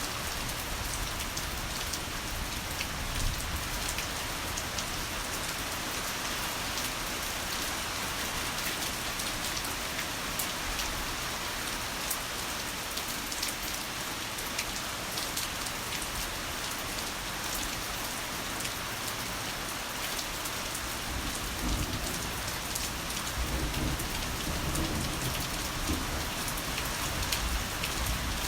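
Heavy rain falling steadily, a dense hiss of drops pattering on surfaces. About three-quarters of the way through, a low rumble of rolling thunder swells underneath.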